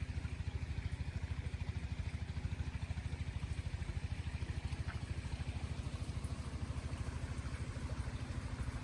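Small engine running steadily at idle with a fast, even chugging beat.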